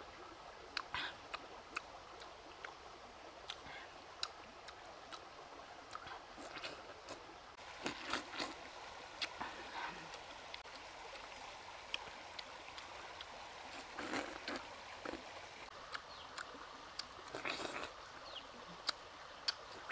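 Wet chewing and smacking of juicy fresh pineapple, with many small sharp clicks and a few louder bursts of mouth noise.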